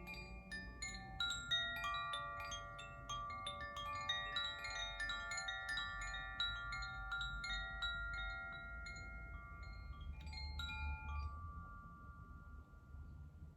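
Koshi chimes ringing: a quick, irregular tinkling of overlapping bell-like tones that thins out about eleven seconds in and dies away.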